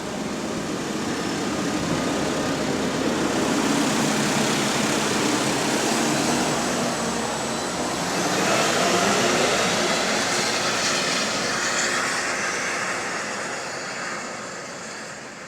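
Bus's hydraulically driven engine cooling fan running hard with a jet-like rushing roar, the 'weird noise' the video is about. It swells, eases around the middle, swells again with a rising whine, then dies down near the end.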